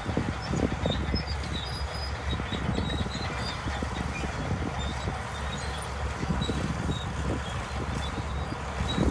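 Crawler bulldozer working earth: a steady low diesel drone with irregular low knocks and rumbles.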